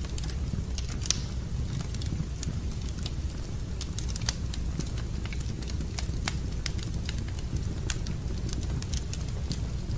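Fire in a fireplace crackling: irregular sharp pops and snaps over a steady low rumble, with a louder pop about a second in and another near the middle.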